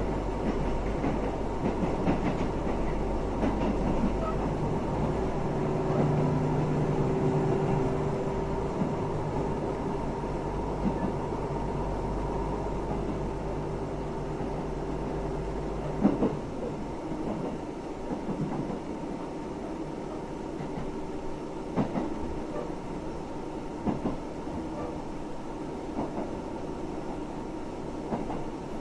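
Train running, heard from inside the carriage: a steady low rumble with a droning hum that fades out about halfway through. In the second half the rumble is lighter and the wheels knock over rail joints every few seconds.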